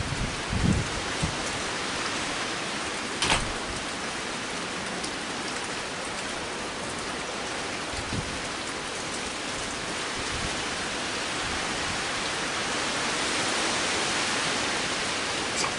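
Heavy rain falling steadily, with a sharp knock about three seconds in and another near the end.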